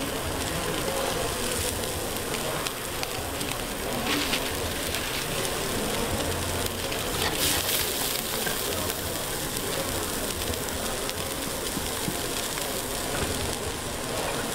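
A duck burger patty sizzling steadily in hot fat in a frying pan, with a couple of brief louder crackles about four and seven seconds in.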